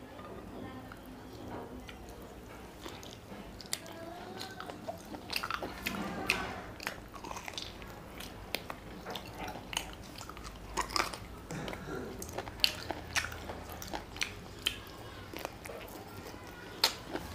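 A person chewing and biting into mutton curry eaten by hand, with many short wet smacks and clicks of the mouth.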